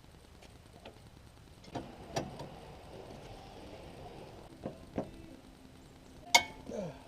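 Metal hand tools and car parts clanking and clinking during hands-on disassembly work, a handful of separate knocks with the loudest near the end.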